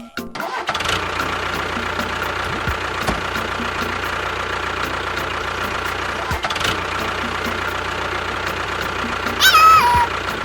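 A small engine runs steadily with a low hum. Near the end a loud tone steps down in pitch.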